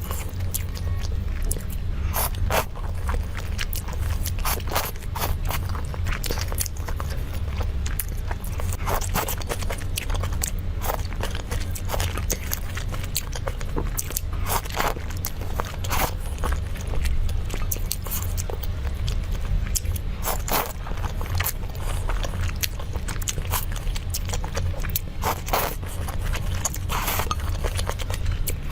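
Close-miked eating: crunchy biting and chewing, a dense run of irregular clicks and crackles, over a steady low hum.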